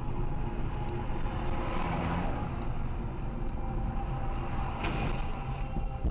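A car driving along: steady engine and road noise heard from inside the cabin, with a short click about five seconds in.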